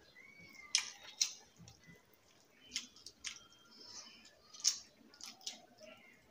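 Mouth sounds of people eating rice and fish curry by hand: a string of sharp, wet lip smacks and chewing clicks at irregular intervals.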